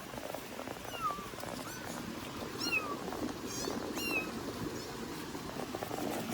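Kitten mewing: about five short, high-pitched mews, each falling in pitch, coming every second or so.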